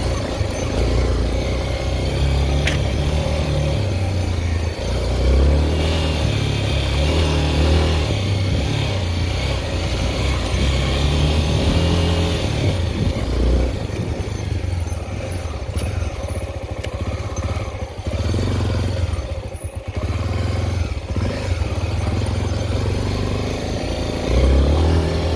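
Honda XR 250 Tornado's single-cylinder four-stroke engine running while the motorcycle is ridden, its revs rising and falling several times with throttle and gear changes, and easing off briefly about three-quarters of the way through.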